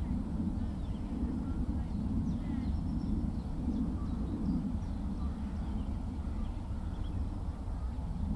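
A steady low rumble, with faint, scattered high bird chirps and short trills above it.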